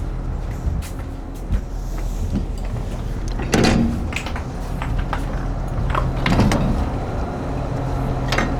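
A boat's engine running steadily with a low hum, and a few knocks and clunks on deck, the loudest about three and a half seconds in and another a little after six seconds.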